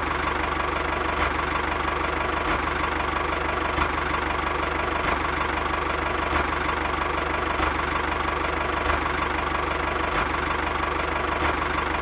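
Mini tractor's engine running steadily at idle, with a fast, even chugging.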